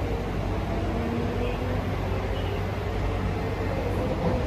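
Kawasaki C151B metro train running between stations, heard from inside the passenger car: a steady low rumble with faint steady tones above it.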